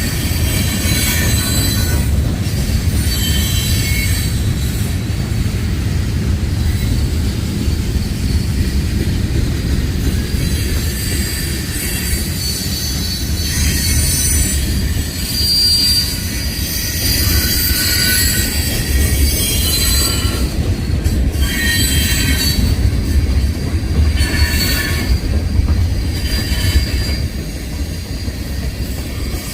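Freight train rolling past at close range: a steady low rumble of wheels on rail, with high-pitched wheel squeal that rises and fades repeatedly.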